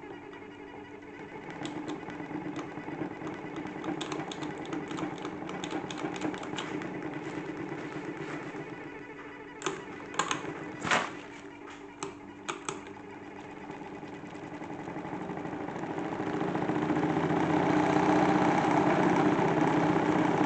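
Small motor-driven salad-spinner toy washing machine running with a steady hum, with a burst of rattling clicks and knocks about halfway through; over the last few seconds it grows steadily louder as it speeds up.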